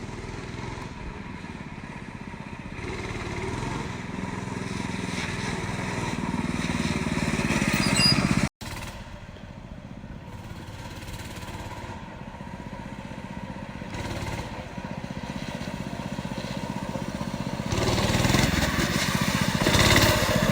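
Mini bike's small engine running and revving, its pitch and loudness rising over the first eight seconds. A sudden break follows, after which the engine is quieter and then louder again near the end.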